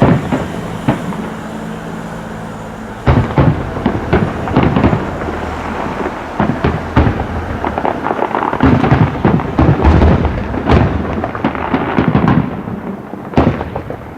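Fireworks shells bursting in quick succession, each bang followed by a rolling echo. A few single bangs at first, then from about three seconds in a dense run of overlapping bangs that thins out near the end.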